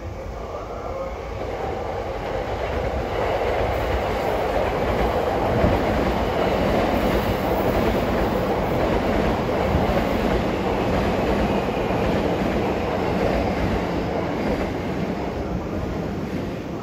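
JR E231-1000 series electric train pulling into the platform, its wheels running over the rails. The rumble builds over the first few seconds, holds steady and eases off near the end as the train slows to a stop.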